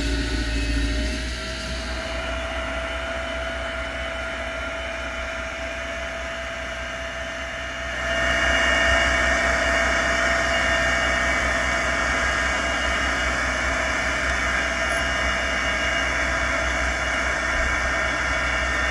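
Zetor tractor engine running with a steady whine over it. About eight seconds in it gets louder and brighter, as if revved up.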